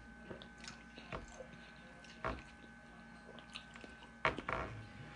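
A person chewing a mouthful of spaghetti, with soft wet mouth sounds and a few short clicks, the loudest about two seconds in and another pair near the end.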